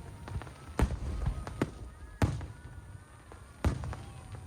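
Aerial firework shells bursting in the sky: a string of sharp booms, the three loudest about a second and a half apart, each trailing off in a rolling echo.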